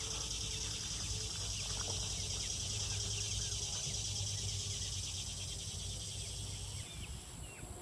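Steady, finely pulsing high-pitched insect chorus that drops away near the end, with a few faint short chirps from young chickens.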